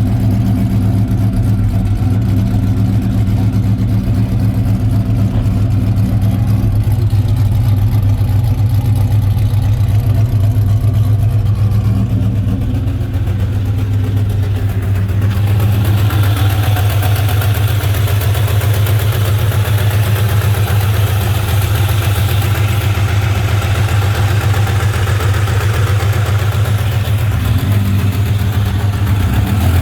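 A 2003 Ford 4.6-litre two-valve V8 idling steadily; the engine has a clacking, ticking noise. About halfway through, a higher, hissier part of the sound grows louder.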